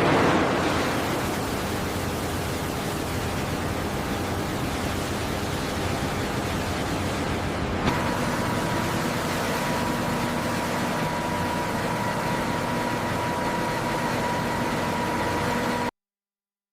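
Steady rushing mechanical noise with a low rumble. About halfway through a click comes and steady humming tones join, then the sound cuts off suddenly near the end.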